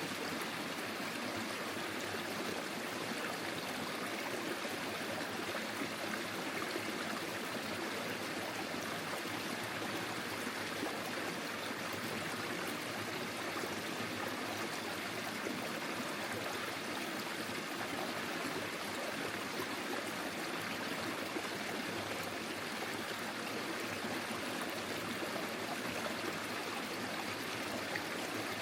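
Forest stream flowing over stones, a steady babbling and trickling of water.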